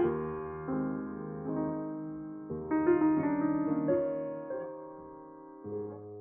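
1955 Steinway Model M grand piano playing a slow, soft passage. Each chord rings on and dies away, and a deep bass note sounds near the end.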